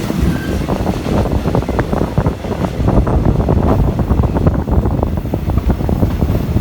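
Wind buffeting the microphone over the steady rumble of a moving vehicle, with irregular low thumps throughout.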